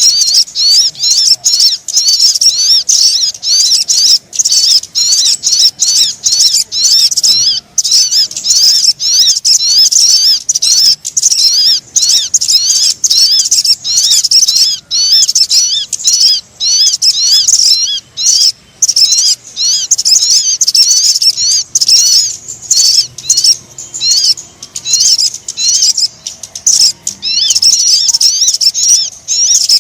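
Sogon bird call played as a trapping lure: a fast, nearly continuous run of short, high-pitched chirping notes, broken only by brief gaps.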